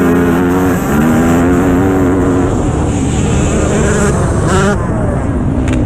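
Dirt bike engine revving, its pitch rising and falling with the throttle, with a quick sharp rev about four and a half seconds in.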